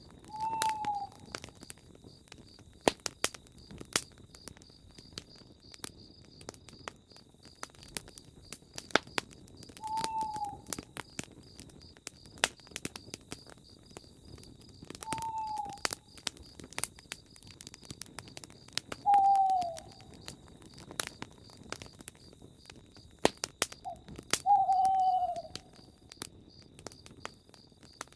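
Campfire crackling with scattered sharp pops. Over it a night bird gives a single short, slightly falling hoot about every five seconds, five times in all, against a steady high pulsing insect trill.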